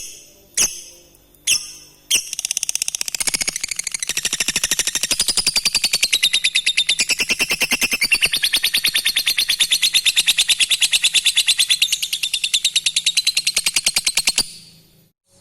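Lovebird ngekek: three short sharp calls, then a long rapid chattering trill of high notes, about seven a second, that runs for some twelve seconds and stops abruptly.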